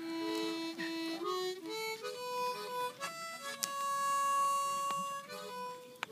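A harmonica playing a slow melody of held notes, one after another.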